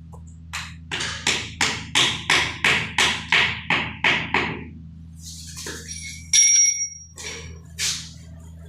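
A quick run of about a dozen sharp knocks, roughly three a second, as a plumber strikes his work, then a few looser knocks and a metal clink that rings briefly, over a steady low hum.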